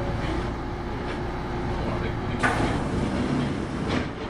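Cabin sound of a Kintetsu 8810 series electric train stopping at a station: a steady low rumble as the motor tones die away, then a sudden hiss of air about two and a half seconds in, with a knock near the end.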